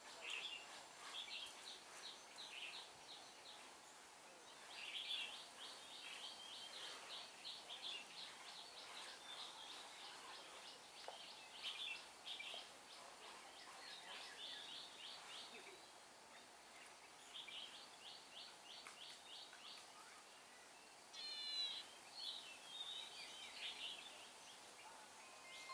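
Faint bird calls: short runs of fast, high ticking notes, repeated every second or two, with a quicker run of sliding notes near the end.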